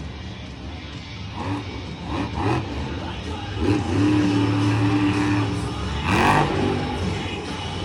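Monster truck engine revving, then held at a steady high pitch for about two seconds midway, with a voice over it now and then.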